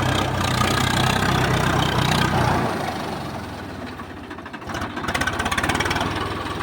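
Swaraj 855 FE tractor's diesel engine running steadily, dropping in level about two and a half seconds in, then a quick even chugging of its firing pulses for about a second near the end.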